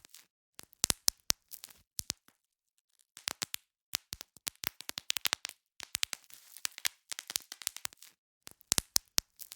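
Bubble wrap being popped: irregular clusters of sharp pops and crackles, separated by brief silent gaps, the longest between about two and three seconds in.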